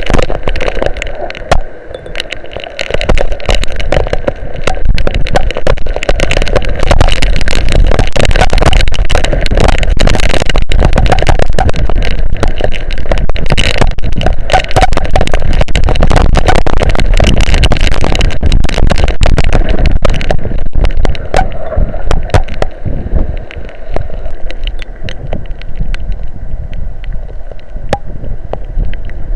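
Strong wind buffeting an outdoor nest-cam microphone in a heavy rainstorm, a loud, rough rumble dotted with many sharp ticks of rain hitting it. It eases somewhat about two-thirds of the way through.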